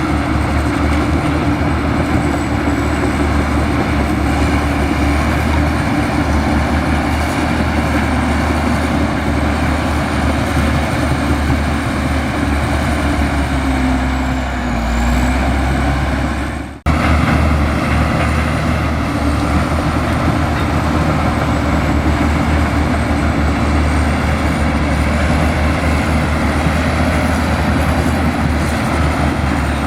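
Komatsu bulldozer's diesel engine running steadily under load, with a thin high whine over it. The engine note sags briefly about 14 seconds in, and the sound drops out abruptly for an instant about 17 seconds in.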